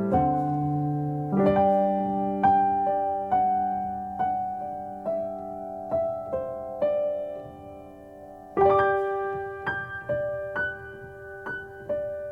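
Background piano music: slow single notes and chords, with a louder chord struck about eight and a half seconds in.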